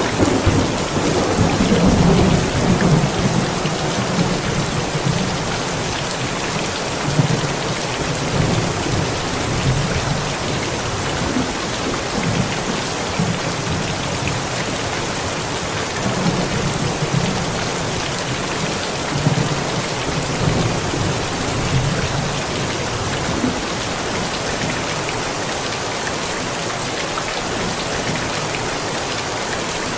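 Steady rain with thunder rumbling low, loudest in the first few seconds, then dying down to weaker rolls now and then.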